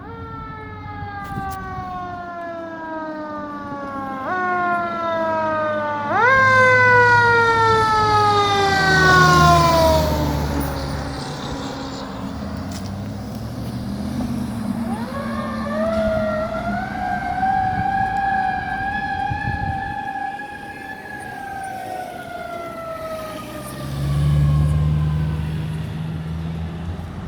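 Fire engine's siren wailing: its tone coasts down in pitch, is wound back up twice in quick succession, fades away, then winds up again, holds and slowly falls. A low horn sounds twice, once over the siren and again near the end.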